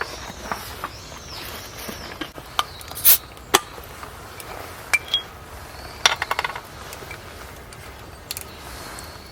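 Scattered sharp clinks and taps of utensils against dishes, with a quick rattling run of clicks about six seconds in. Birds chirp faintly for the first couple of seconds.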